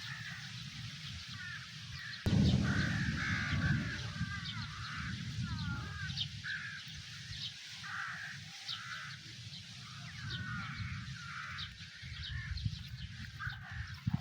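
Birds calling over and over, short wavering calls, over a steady low outdoor rumble; about two seconds in a sudden louder low rumble swells up for a second or two.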